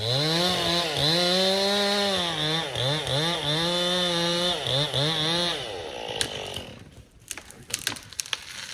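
Chainsaw starting to cut at full throttle, its pitch dipping and recovering again and again as it bogs in the wood. It stops about five and a half seconds in. A scatter of sharp cracks and snaps follows near the end.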